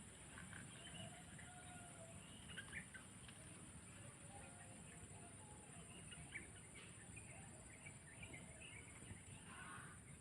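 Faint, scattered bird chirps over a steady high-pitched hiss.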